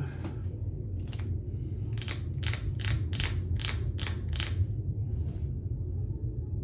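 Trading cards being handled at the table: a quick run of about eight short swishes, evenly spaced, a couple of seconds in, over a steady low hum.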